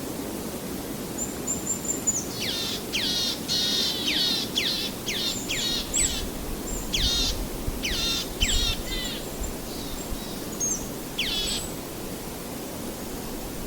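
Birds calling: a quick series of sharp calls, each sweeping down in pitch, bunched from about two seconds in until past the middle, with one more call near the end. A steady low rushing noise sits under them.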